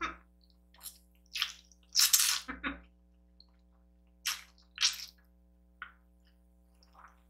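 Close-miked wet slurping and squishing from a mouth eating kimchi noodles, in about eight short bursts with gaps between; the loudest and longest is about two seconds in.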